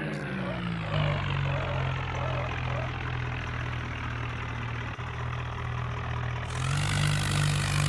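Tractor engine idling steadily. Its speed drops back during the first second and picks up again about seven seconds in.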